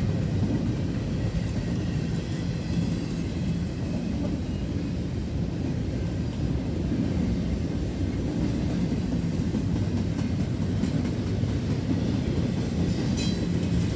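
Double-stack container train's well cars rolling past: a steady low rumble of steel wheels on the rails.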